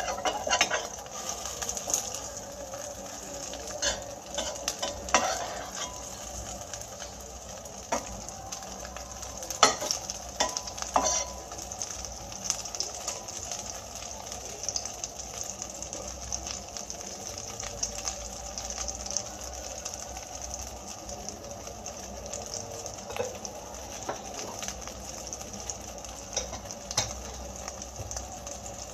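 Chicken shami kababs shallow-frying in oil in a stainless steel pan, a steady sizzle. During roughly the first ten seconds a metal spoon and tongs clink and scrape against the pan as the kababs are turned, with only a few knocks after that.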